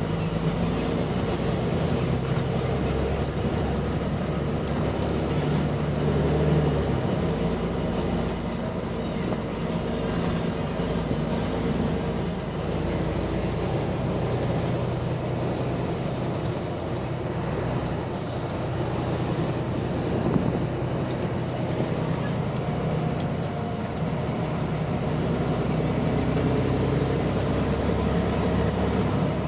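Double-decker bus engine running under way, heard from on board, its note shifting as the bus speeds up and slows, with a high whine rising and falling; the bus has an exhaust leak.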